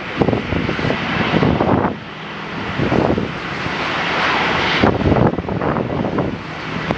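Airliner engines running, with a rushing roar that swells and eases. Gusts of wind buffet the microphone throughout.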